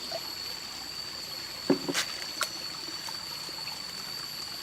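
Water trickling, with a steady high whine throughout and a few sharp clicks about two seconds in.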